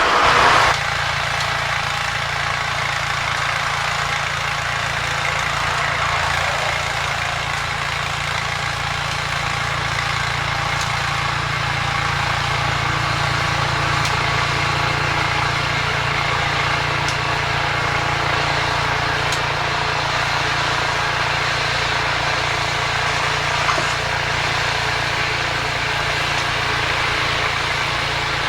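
An engine running steadily, after a brief louder burst right at the start.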